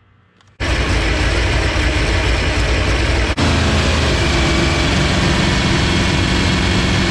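Mustang's engine running steadily, starting abruptly about half a second in with a brief dropout a little past three seconds.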